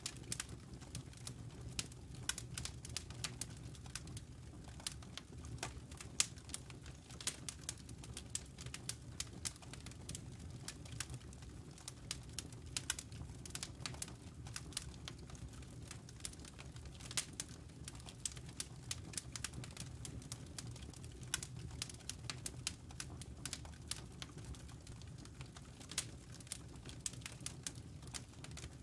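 Campfire embers and burning wood crackling: many sharp, irregular pops and snaps over a soft, steady low rustle of the fire.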